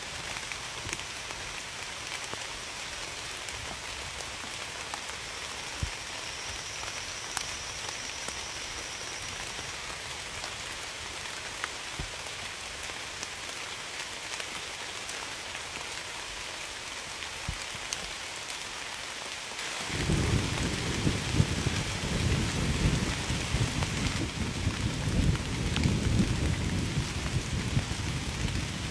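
Steady rain with scattered drop ticks. About two-thirds of the way in, a low rumble of thunder sets in suddenly and rolls on under the rain, louder than the rain itself.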